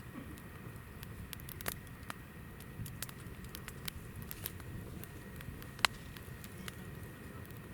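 Hinoki (Japanese cypress) firewood burning in a campfire, crackling with scattered sharp pops at irregular intervals, one louder pop about three quarters of the way through, over a low steady rumble.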